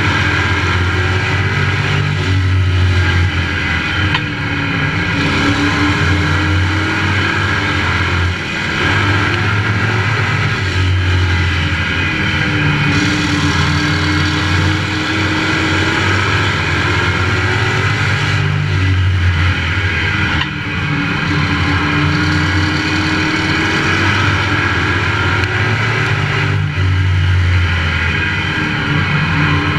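Pro Truck race engine heard onboard at racing speed, running hard and easing off every few seconds as the driver lifts for the corners and gets back on the throttle.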